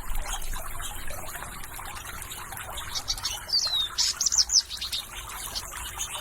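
Birds chirping over a steady trickle of running water, with a short burst of calls, including a falling whistle and a quick run of notes, about three to four and a half seconds in.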